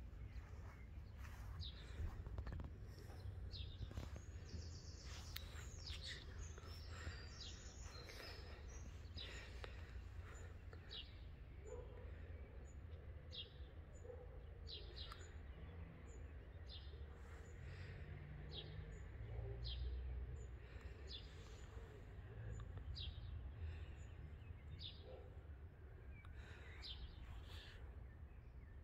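Small birds chirping faintly in garden trees: varied high chirps at first, then a single short chirp repeated about once a second, over a steady low background rumble.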